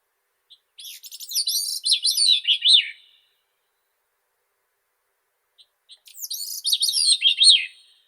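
Grey-cheeked thrush singing: two high, fluty song phrases, each a run of notes spiralling downward in pitch, the first about a second in and the second near the end.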